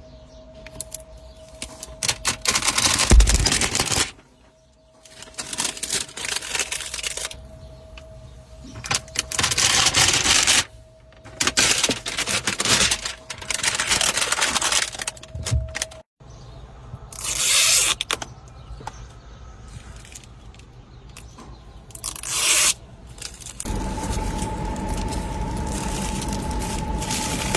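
Protective plastic film being peeled and torn off a new car, in repeated crackling, ripping strokes of a second or two each. Near the end a steady hum sets in.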